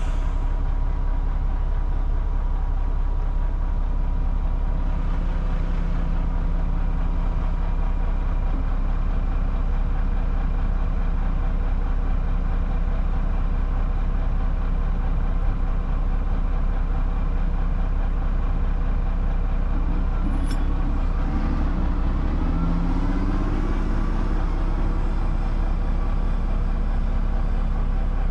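Heavy diesel engine running steadily at a low, even drone. A sharp click comes about two-thirds of the way through, and shortly after it the engine note briefly rises several times.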